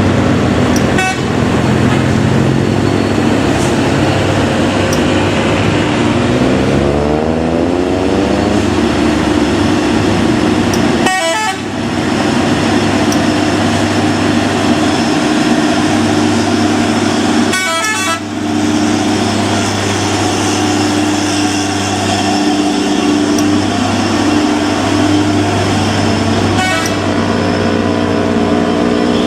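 Road traffic of trucks and cars on a steep mountain road: heavy engines run steadily, one engine's note rises about seven seconds in, and a vehicle horn sounds.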